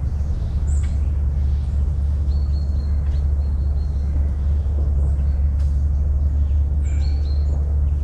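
Small birds chirping and whistling a few times over a steady low rumble.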